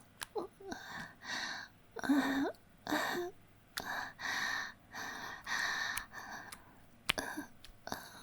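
A woman's voice in a run of breathy gasps and sighs, about one a second, a few of them with a short voiced moan.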